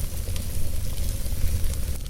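Wood fire burning in a fireplace, with many small crackles and pops scattered over a steady low rumble.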